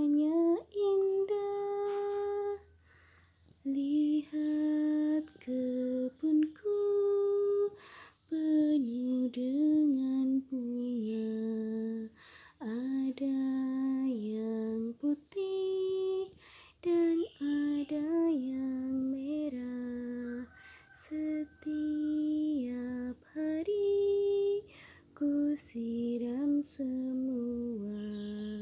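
A woman singing a slow, unaccompanied song to a baby, holding each note in short phrases with brief pauses between them.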